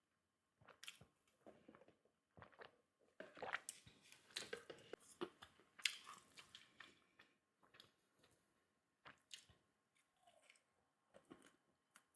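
Quiet, close-miked chewing and biting of food: a run of short crunchy, wet mouth sounds that is busiest and loudest in the middle and thins out towards the end.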